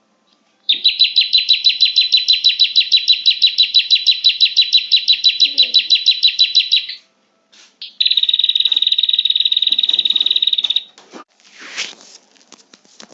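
Prinia (prenjak) calls: a long rapid trill of evenly repeated high notes for about six seconds, then after a short pause a faster, buzzier trill of about three seconds, and a brief sweeping note near the end.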